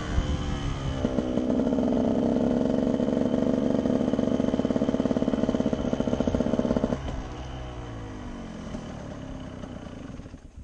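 Motorcycle engine held at steady high revs under throttle for several seconds, then the throttle is closed and the engine note falls away as the bike slows.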